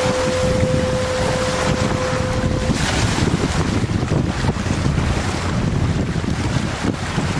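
Heavy wind buffeting the microphone over a low rumble of water and boat. A single long, steady horn note, like a ship's whistle, sounds at the start and stops about three seconds in.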